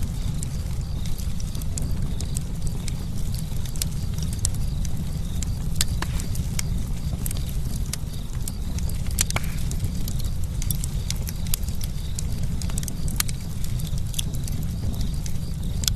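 Campfire crackling: irregular sharp pops and snaps, scattered unevenly over a steady low rumble.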